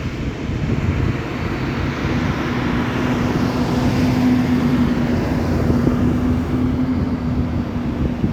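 Airplane passing overhead: a steady engine rush that swells to its loudest around the middle, with a high hiss that rises and fades and a steady low hum underneath.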